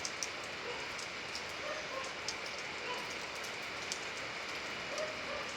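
Steady rain falling, with scattered individual drops ticking sharply on a nearby surface.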